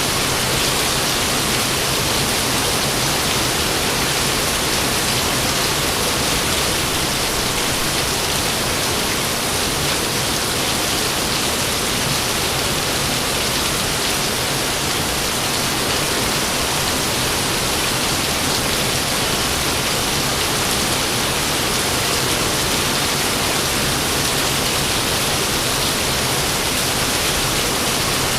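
Steady rain falling, an even hiss that holds unchanged with no thunderclaps.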